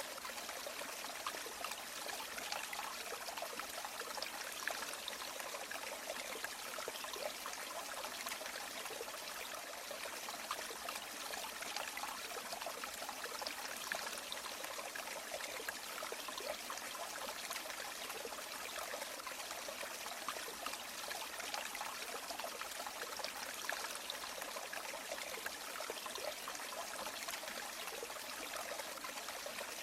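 River water running steadily: an even, continuous rush of water, mostly high in pitch with little deep rumble.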